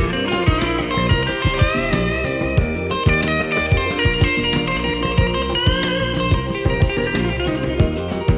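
Instrumental blues-rock: a lead electric guitar playing bent, sliding notes over a steady drum beat and bass, with no singing.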